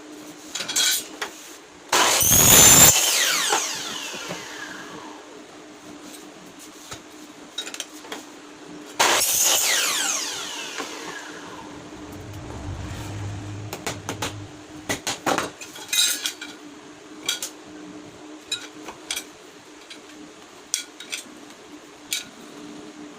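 Metal pieces clattering and ringing as they are handled in workshop assembly: two loud clatters with a ringing tail, about two and nine seconds in, then a series of light clicks and taps, over a steady hum.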